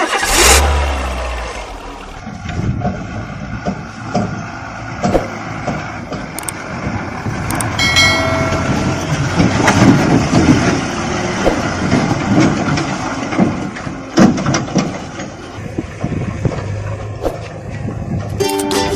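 A vehicle running with a continuous rumble and clatter and scattered knocks, with a short horn-like tone about eight seconds in.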